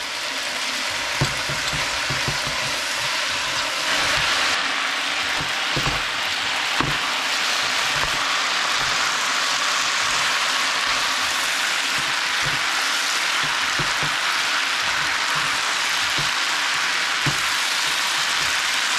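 Chicken yakisoba noodles sizzling steadily in a hot frying pan as they are tossed with metal tongs, with scattered soft clacks of the tongs against the pan. The sizzle gets louder about four seconds in.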